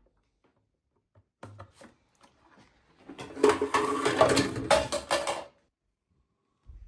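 Xiaomi semi-automatic espresso machine running briefly: a loud rattling buzz of about two and a half seconds that starts about three seconds in and stops abruptly. It follows a few short handling clicks.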